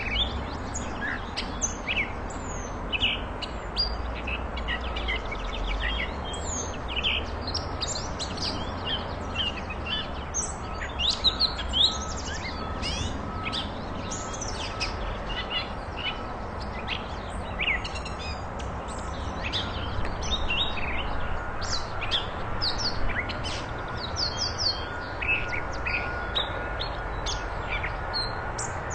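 Catbird singing a long, rambling run of quick, varied chirps, squeaks and short whistled glides, with little break, over a steady background hiss.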